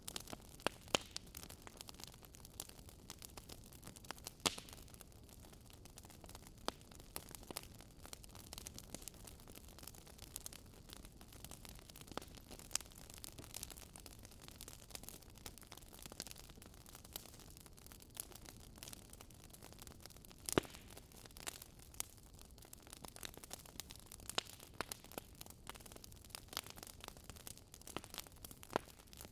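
Wood campfire crackling, with irregular sharp pops and snaps, a few of them louder, over a faint steady rush of a river.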